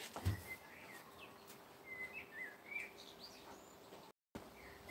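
Faint chirping of small garden birds, several short rising and falling calls, over a faint steady hum. A soft low thump comes shortly after the start, and the sound drops out completely for a moment near the end.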